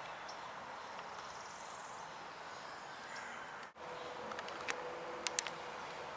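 Outdoor ambience: a steady background hiss, cut off briefly about two-thirds of the way in. After the cut come a few short, sharp high chips or clicks.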